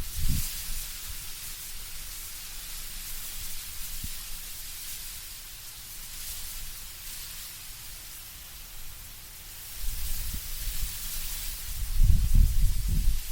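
Wind blowing through autumn trees, leaves rustling in a steady hiss that swells in gusts. A low rumble of wind gusts comes in about ten seconds in and is loudest near the end.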